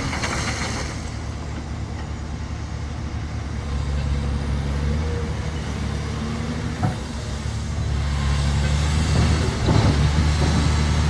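Large diesel engine of heavy construction machinery running steadily, with one sharp knock about seven seconds in; the engine grows louder from about eight seconds on.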